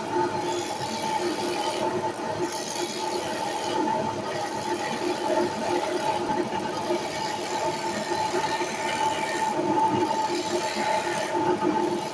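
A 1933 Walker-Turner Driver wood lathe running on its antique Western Electric electric motor, a steady hum with a hiss that fades and returns several times.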